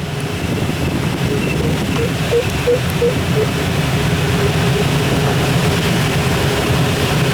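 Steady rush of airflow over a Schleicher ASK-21 glider's cockpit in flight, with a run of short beeps about three a second for a couple of seconds early in, typical of a glider's audio variometer.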